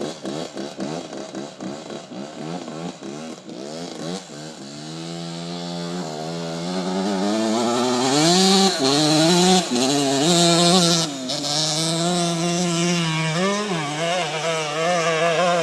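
Suzuki RM125's single-cylinder two-stroke engine, blipped in quick rev-ups for the first few seconds, then wound up and held at high, wavering revs under full throttle as the bike climbs the hill.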